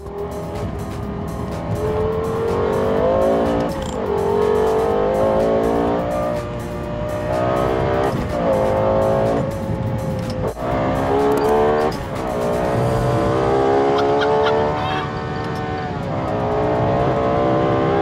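High-performance car engine accelerating hard through the gears: its pitch climbs, drops sharply at each upshift and climbs again, several times over.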